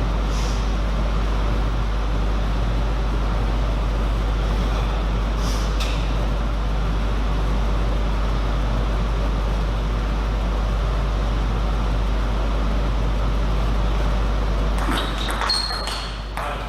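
Steady hiss and low hum of background noise, with a few faint clicks. Near the end comes a short cluster of sharper clicks and knocks.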